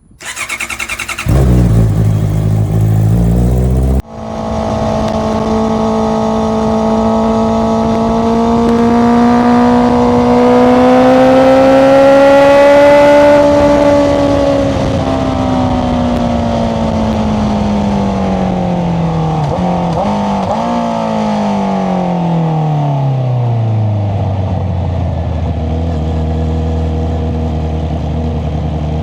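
Honda CBR650R's inline-four engine through an Akrapovic aftermarket exhaust, ridden at steady throttle, its note climbing slowly and then falling away with a couple of brief blips before settling to a low idle near the end. It opens with a short, louder low rumble that cuts off about four seconds in.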